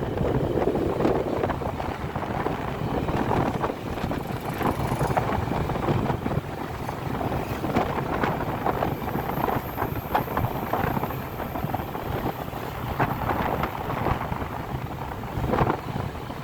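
Wind buffeting the microphone over steady vehicle running noise while on the move.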